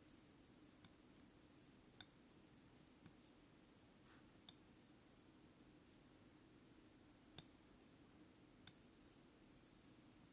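Near silence with a faint steady low hum and about six small sharp clicks spaced irregularly, the loudest two about two seconds in and past seven seconds.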